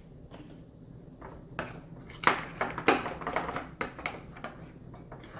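A spoon clicking and scraping against a bowl as a thick mayonnaise and ranch-seasoning paste is stirred. The clicks are irregular and come after a quiet start.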